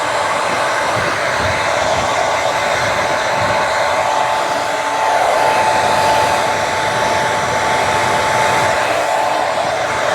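Handheld hair dryer blowing steadily, a rushing air noise with a steady whine, getting a little louder about halfway through.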